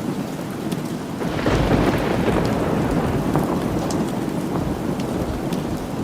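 Steady rain, with a roll of thunder breaking in about a second in and slowly fading away.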